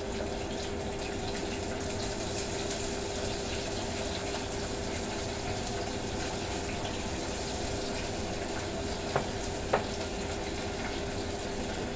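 Food deep-frying in a pot of oil: a steady sizzling hiss with a steady hum underneath, and two light knocks about three quarters of the way through.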